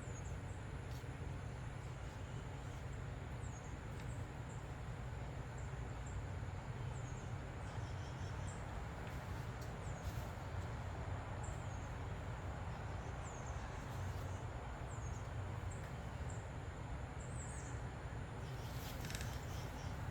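A small bird chirping over and over, short high chirps that slide downward, roughly one a second, over a steady low hum.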